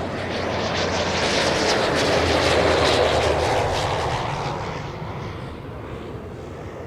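Prototype Farnborough F1 Kestrel single-engine turboprop passing by, its engine and propeller noise swelling to a peak a few seconds in and then fading away.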